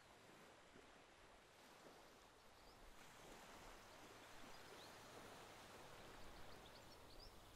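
Faint outdoor ambience fading in: an even rushing noise with a few short, faint high bird chirps, mostly in the second half.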